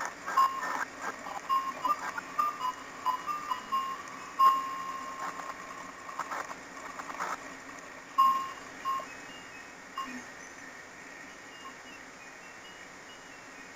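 Ice cream truck's chime jingle playing a tune of short electronic tones, fading away about eight to ten seconds in as it gets farther off.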